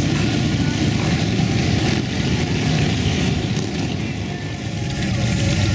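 Motorcycle engines running, a steady low rumble that eases off slightly around four seconds in and builds again near the end.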